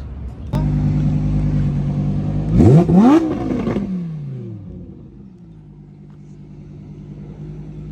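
Car engine idling, then revved hard once about two and a half seconds in. The pitch climbs sharply and then falls back over a couple of seconds to a steady idle.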